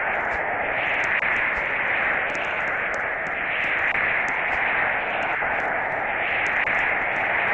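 Steady hissing noise like static, with no change through the stretch.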